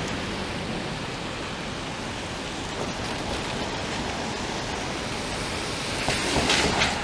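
Steady hiss of rain and wet city street noise. About six seconds in, a louder rush swells briefly and fades.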